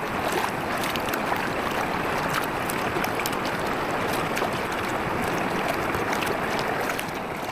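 Campfire crackling and hissing: a steady hiss with many small sharp pops and snaps, fading slightly near the end.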